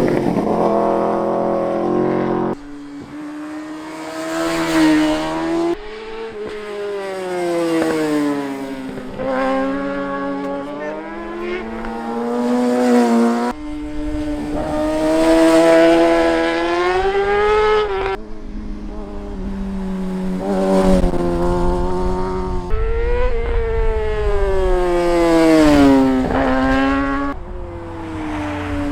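Superbike engine pulling hard and backing off through the gears, its pitch climbing and falling with each run and jumping abruptly at each gear change, about half a dozen times.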